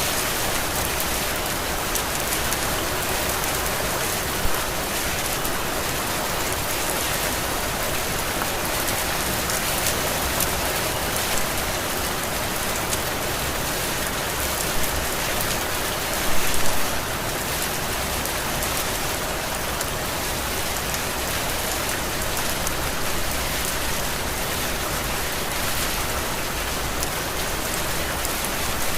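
Heavy tropical rain falling steadily, a dense even hiss, with a couple of briefly louder splashes about four seconds in and again around the middle.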